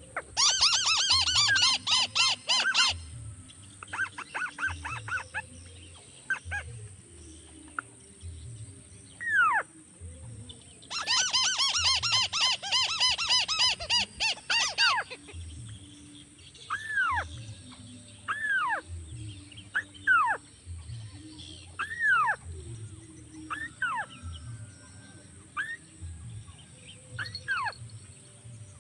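A crake's rapid rattling call in two loud bursts of three to four seconds each, used as a lure call. Between the bursts come single short falling whistled notes every second or two, over a steady high hiss.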